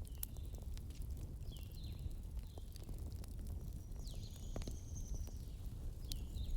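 Wood fire burning in a fireplace: a steady low rumble with scattered sharp crackles and pops, and a few short high squeaks that slide down in pitch.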